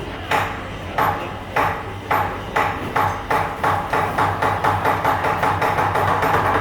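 Chinese lion dance percussion: drum and cymbal strikes over a ringing gong tone. The beat speeds up steadily from under two strikes a second to about four or five a second.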